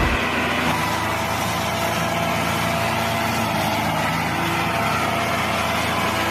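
A small motor or engine running steadily at an even pitch, with no change in speed.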